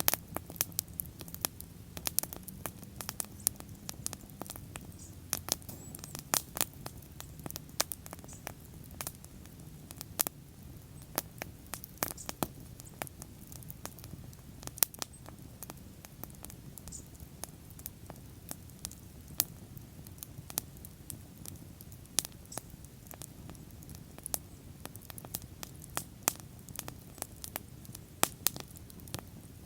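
Wood fire burning and crackling: frequent irregular sharp pops and snaps over a steady low rumble of the flames.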